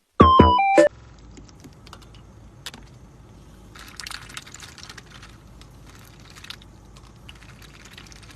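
A short burst of electronic music notes that cuts off about a second in, followed by faint, irregular clicking and tapping in quick clusters, like keys being typed.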